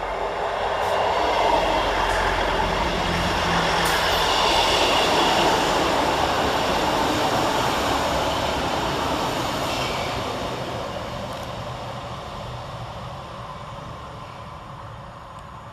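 Diesel multiple-unit train running through the station: its engines and wheels grow louder over the first few seconds, then fade away steadily.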